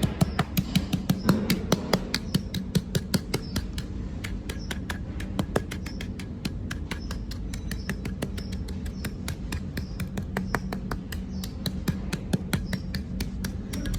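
Small electric motors of radio-controlled toy construction vehicles humming steadily, with a rapid, irregular run of sharp clicks and ticks on top, loudest at the start.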